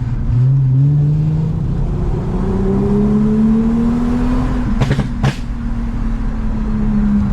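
Toyota Mark X V6 with a modified exhaust accelerating, its engine note rising steadily for about four seconds, then holding steady and easing off near the end. Two sharp clicks come about five seconds in.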